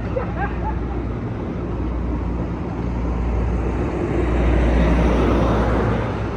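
Train approaching through the station: a low diesel rumble under a rising wash of noise that grows louder about four seconds in.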